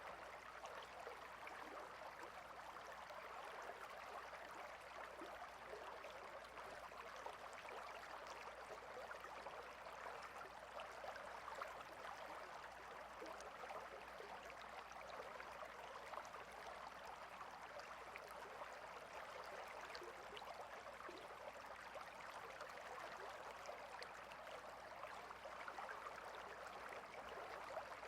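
A stream of water running steadily over stones, a faint, even trickling with no pauses.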